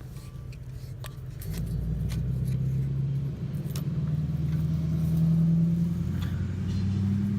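A low engine-like hum that gets louder about a second and a half in, its pitch shifting in steps.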